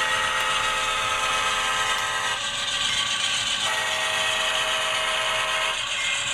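Sound decoder audio from ESU LokSound-equipped HO scale GE AC4400CW model locomotives on a run-by: a multi-chime diesel horn sounding steadily over the engine sound, played through the models' small on-board speakers. The mix of tones shifts about two and a half seconds in and again near four seconds.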